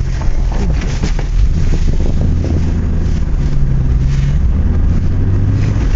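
Car engine running at low speed, heard from inside the cabin with road noise, its note rising and falling a little, and a few knocks in the first second.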